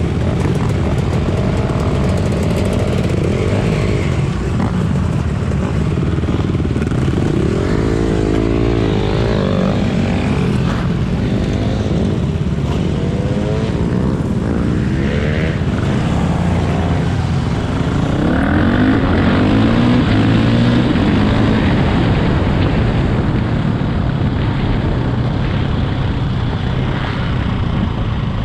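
Dirt bike engine running under way, its pitch rising and falling repeatedly as it revs up through the gears and backs off, over a steady rumble of wind noise.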